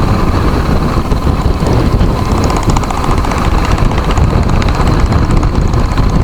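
Motorcycle engine running steadily on the move, a continuous low rumble mixed with wind rushing over the microphone.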